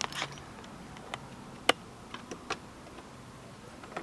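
Handling noise of a camera being set in place: a handful of scattered sharp clicks and taps, the loudest a little under two seconds in.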